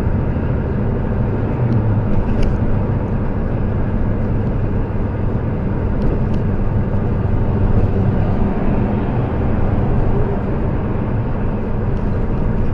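Steady low rumble of a vehicle on the road, engine and tyre noise heard from inside the cab, with a few faint ticks.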